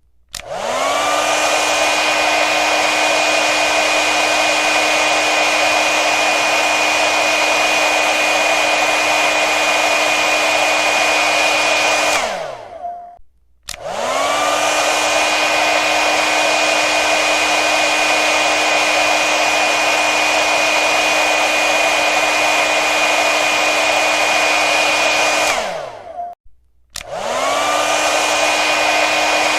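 Hair dryer motor running with a steady whine over a hiss of rushing air. It is switched off twice, each time winding down with a falling pitch into a brief gap, and each time it switches back on, the whine rising to its running pitch within about a second.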